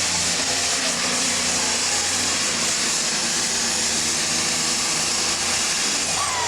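Turbocharged diesel super stock pulling tractor running at full power under load on the pull, a loud steady engine noise with a high turbo whistle over it. The whistle drops away about six seconds in as the engine comes off the throttle.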